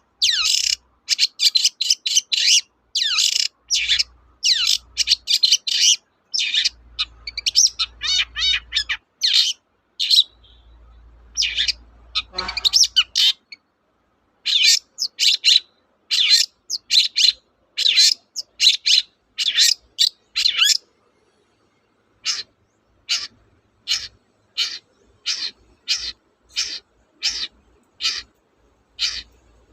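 Long-tailed shrike (cendet) singing. First come dense runs of short, sharp, high notes. After a pause about ten seconds in, it settles into a steady series of single short notes, about one and a half a second.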